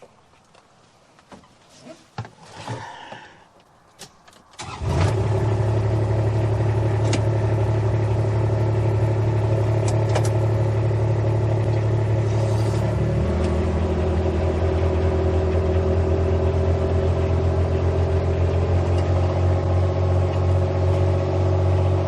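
Engine of a Kubota farm vehicle comes in suddenly about five seconds in and runs steadily, with a slight drop in pitch about halfway through. Before it, a few faint clicks and steps.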